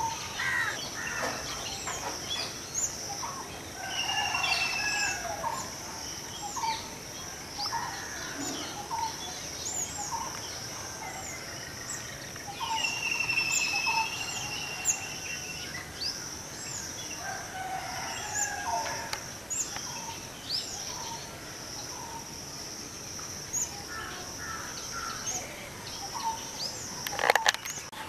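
Small birds chirping, with short repeated call notes and a few quick twittering trills, over a steady high-pitched drone. A sharp knock sounds near the end.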